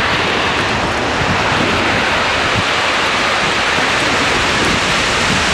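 Tornado winds and driving rain making a loud, steady rushing noise as the storm passes directly overhead.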